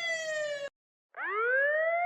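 Emergency-vehicle siren wailing down in pitch, cut off abruptly about two-thirds of a second in; after a short silence another siren winds up, rising steeply from a low pitch.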